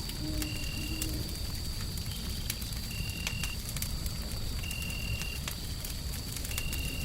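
Wood fire crackling with scattered sharp pops over a steady, low rumbling white noise. A faint steady high tone and short high tones, repeating about every two seconds, sit on top.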